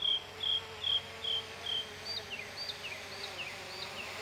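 A bird singing: a run of short repeated whistled notes, about two a second, then switching about halfway through to a series of down-slurred whistles. A faint steady hum lies underneath.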